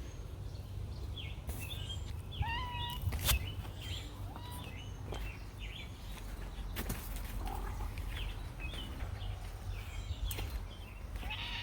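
Small birds chirping on and off, short high chirps and little whistled glides scattered throughout, over a low steady outdoor rumble. A few sharp clicks stand out, about three seconds in, near the middle and near the end.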